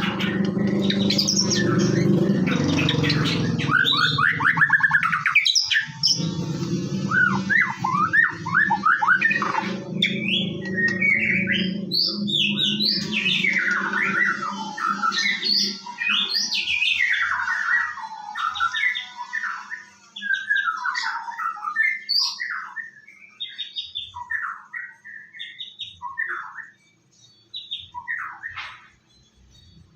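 White-rumped shama (murai batu) song, a fast, varied run of whistles, trills and harsh notes with hardly a pause. A steady low hum lies under the first half and stops about halfway through.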